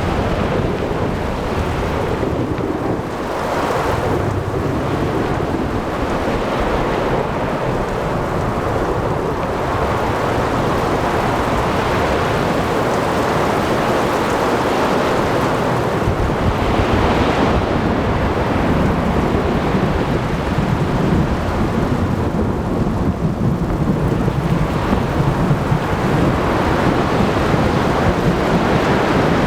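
Thunderstorm ambience: continuous rain and rolling thunder, with a low rumble and a dense hiss that swell and ease without pause.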